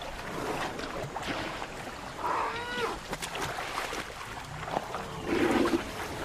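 Asian elephants calling while wading through a muddy pond: a short call that bends in pitch about two seconds in, and a louder, lower call about five seconds in, over splashing water.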